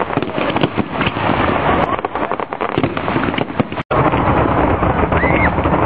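Fireworks and firecrackers going off in a rapid string of sharp cracks and bangs, with crowd voices and shouts. The sound drops out for a moment just before four seconds in, then continues as a denser din of crowd noise with shouts.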